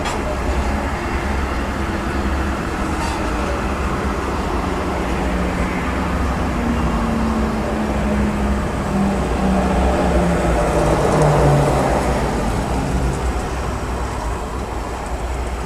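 Norfolk Southern intermodal container train rolling past, a steady low rumble of cars on the rails. A passing engine tone falls in pitch over several seconds, loudest about eleven seconds in.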